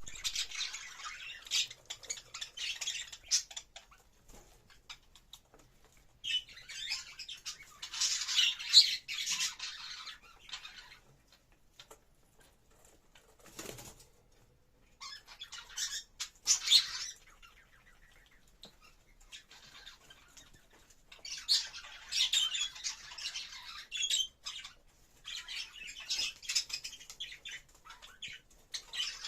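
Budgerigar mating chatter: rapid scratchy warbling and squawks in bursts of a few seconds, with short pauses between them.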